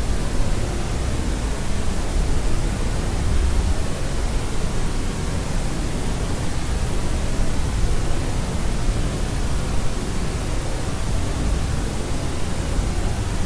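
Steady white noise for sleep: an even, unchanging hiss, fuller in the low end.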